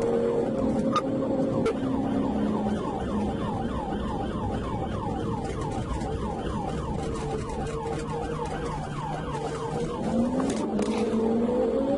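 Police siren in a fast yelp, rapid repeating sweeps for several seconds in the middle, over a steady engine tone. The engine pitch rises near the end as the vehicle speeds up.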